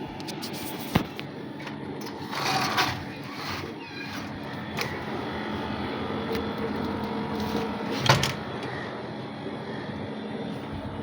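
Air conditioner running with a steady hum and a faint tone, broken by a short rustle about two seconds in and sharp knocks about one and eight seconds in.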